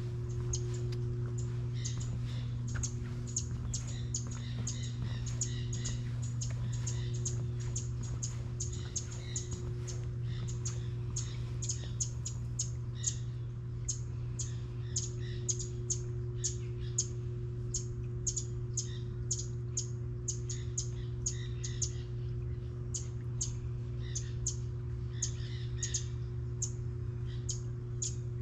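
Small birds chirping in quick, repeated short calls, over a steady low hum.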